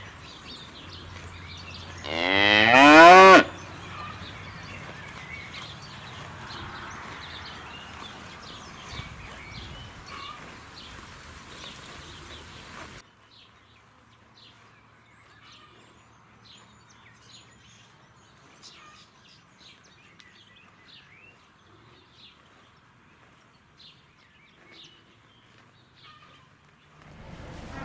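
Holstein dairy cow mooing: one loud call about two seconds in, a little over a second long and rising in pitch. Another moo begins near the end.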